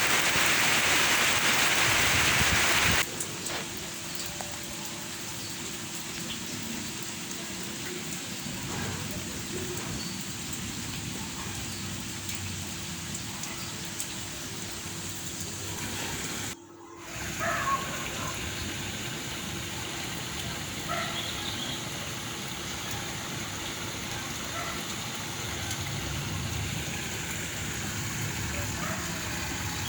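Light rain, a drizzle, falling steadily. It is louder for about the first three seconds, then drops suddenly to a quieter, even patter, with a brief gap a little past halfway.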